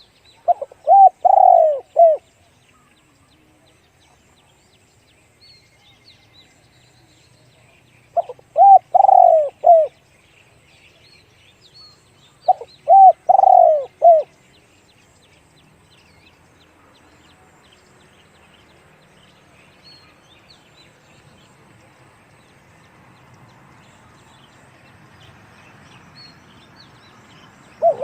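Spotted dove cooing: three phrases of a few deep, rounded notes, each phrase about a second and a half long and several seconds apart, with another phrase starting at the end. Faint chirps of small birds in between.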